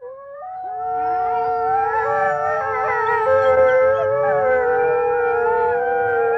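A chorus of wolves howling together. Several long held howls at different pitches overlap and glide, starting abruptly out of silence and swelling over the first second.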